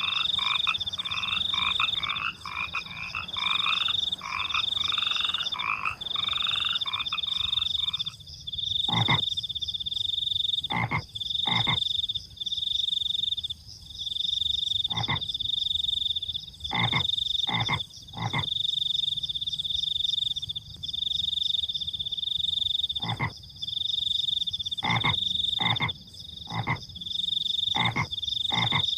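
Frogs croaking over crickets trilling at a high pitch. For the first eight seconds frogs call densely in chorus; then the chorus stops and single short croaks follow every second or two.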